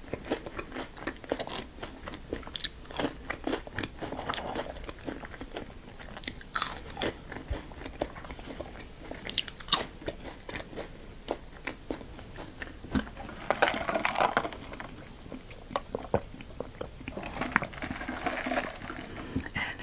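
Close-miked eating: a person biting and chewing crunchy food, with many sharp crunches scattered throughout. There are two denser, louder stretches of chewing, one about two-thirds of the way in and one near the end.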